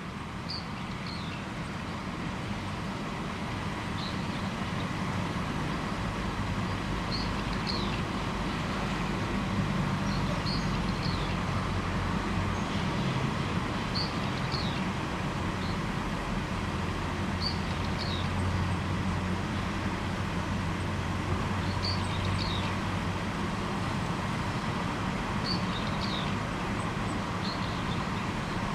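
A small bird singing, with short high chirps in clusters of two or three quick falling notes, repeated every few seconds. Underneath is a steady low rumble of background noise.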